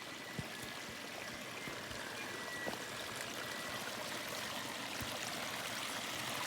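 Small bush creek running steadily after heavy rain, a creek that the owner says has probably not run for 15 years.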